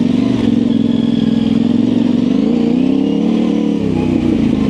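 Yamaha Ténéré 700's parallel-twin engine running at low revs through an aftermarket high-mount exhaust, its pitch rising a little and dipping with small throttle changes on slow trail riding.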